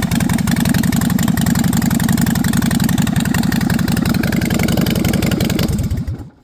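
A 2017 Harley-Davidson Softail Slim's V-twin engine, through aftermarket straight pipes, idling loud with steady firing pulses, then switched off about six seconds in, the pulses slowing briefly before it stops.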